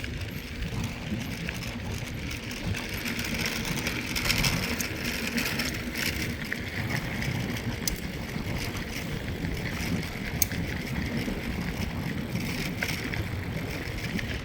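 Mountain bike rolling along a trail of compacted sand and fine gravel: a steady rumble and hiss of the tyres on the grit, with a few sharp clicks and rattles from the bike.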